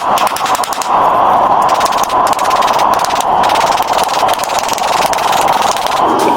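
A workshop machine running steadily and loudly, with rapid ticking in the first second.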